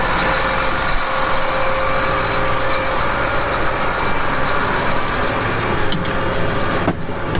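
Combine harvester running steadily, a loud even machine noise with a few constant tones in it. A couple of brief clicks come about six seconds in, and the noise dips for a moment near the end.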